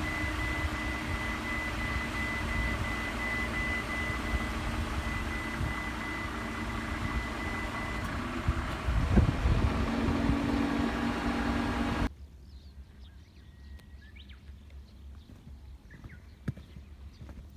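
An engine running steadily with a thin high whine, growing a little louder near two-thirds of the way through, then cutting off abruptly to a quiet background with faint clicks and chirps.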